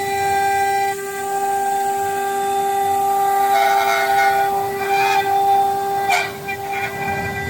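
A 5-axis CNC router's spindle running with a steady high whine, with a few short patches of the cutter's noise against the workpiece about halfway through.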